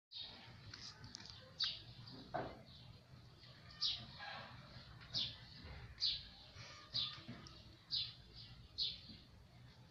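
A bird chirping: short, high, falling chirps repeated about once a second over low background noise.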